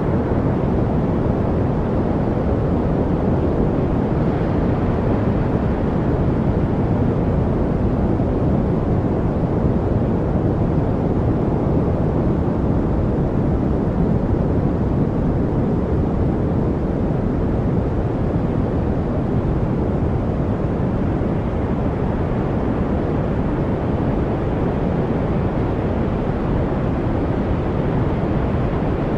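Steady noise track, deep and rumbling rather than hissy, its weight in the low end: an unchanging wash with no separate sounds in it.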